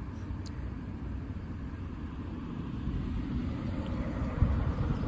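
Cars driving past: a steady rumble of engines and tyres that swells slightly toward the end, with a single short knock about four seconds in.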